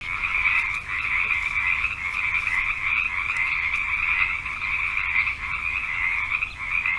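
A chorus of frogs calling, a dense continuous trilling that starts suddenly.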